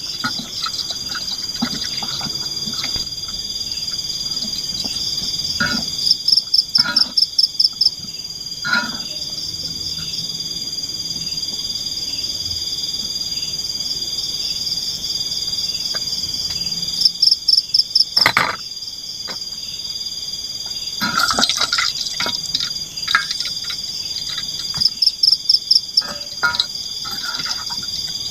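Night forest chorus of frogs and insects: a steady high-pitched drone runs throughout, with a loud call of rapid pulses that comes three times. Scattered drips and taps sound in between.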